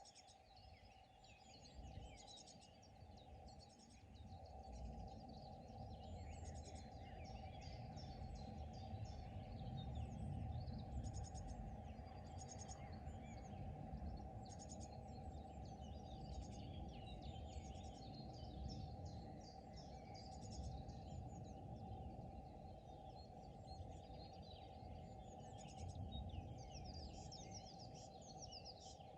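Several songbirds chirping and trilling in many short overlapping calls, over a faint low rumble that swells about four seconds in.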